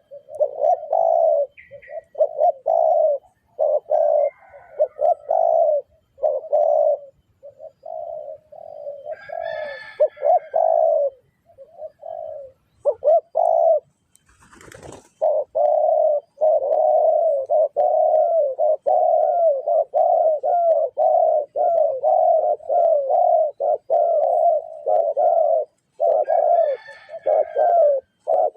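Spotted dove (tekukur) cooing: a long run of short, low coos repeated almost without pause. Halfway through there is a short break with a brief rustling noise, and faint higher chirps of another bird come twice.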